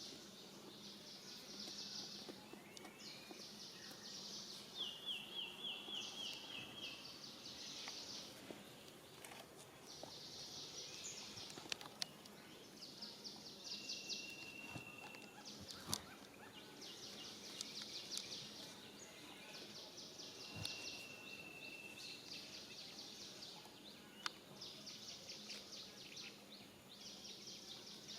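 Faint outdoor natural ambience: high, buzzy calls of about a second each repeat all through, with a few short whistled notes and two or three sharp clicks.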